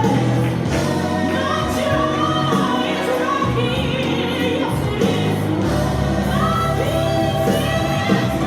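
Gospel song with a lead singer and backing choir over a steady instrumental accompaniment.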